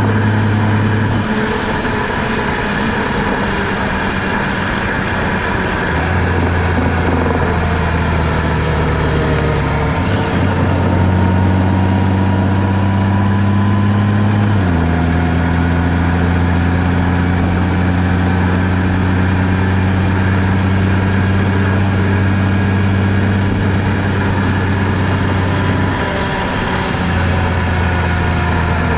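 Car engine running steadily while driving, its low hum jumping abruptly to a new pitch several times, over steady road noise.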